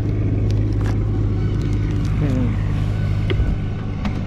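A vehicle engine running steadily at idle, a continuous low hum, with a few light clicks over it.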